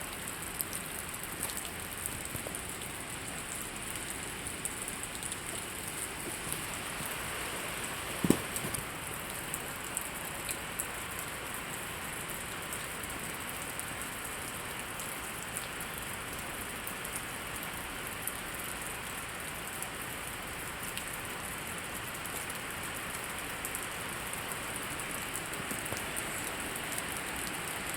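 Steady rain falling on the ground and nearby surfaces, with many individual drops ticking through the hiss. One brief, louder low sound cuts through about eight seconds in.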